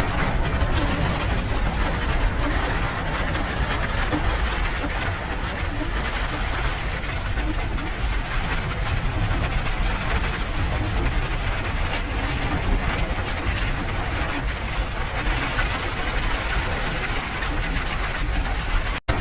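Steady rain: an even hiss with a deep low rumble underneath and no change in strength.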